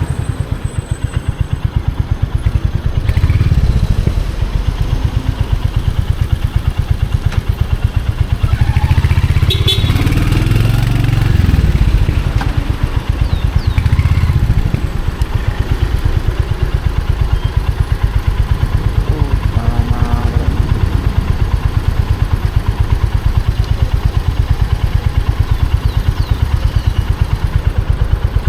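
Royal Enfield Hunter 350's single-cylinder engine and exhaust running with an even pulsing beat. It is revved up several times in the first half, then runs steadily at low revs.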